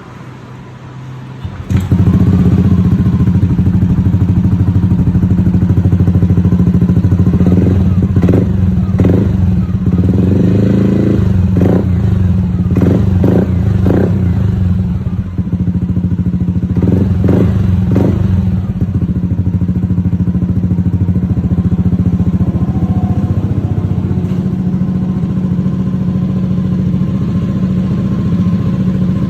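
Yamaha Aerox 155 scooter's single-cylinder 155 cc engine, through an aftermarket Akrapovic exhaust, starting up about two seconds in and then idling steadily. There is a run of short, sharp throttle blips in the middle.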